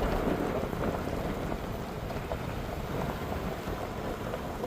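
Road noise of a pickup truck driving on a gravel forest road: a steady rumble full of fine crackling from the tyres rolling over gravel.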